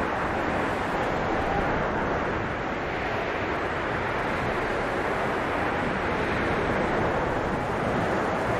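Blizzard wind blowing steadily, a dense rushing noise with a faint whistling howl that rises and fades now and then.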